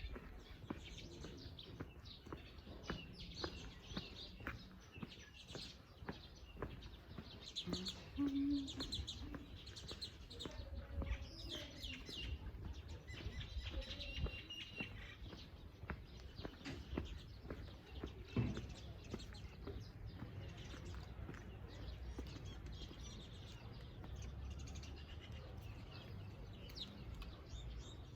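Small birds chirping and twittering, with scattered clicks and knocks over a low steady rumble.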